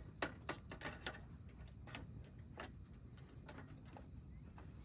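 Faint, steady high-pitched chirring of insects, with scattered light clicks and taps through it.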